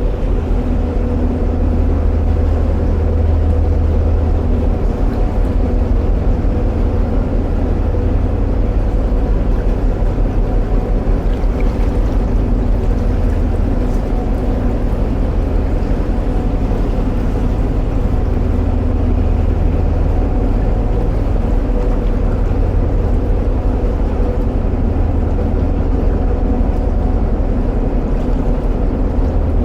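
Narrowboat's diesel engine running steadily at cruising speed, a low even throb with no change in pace.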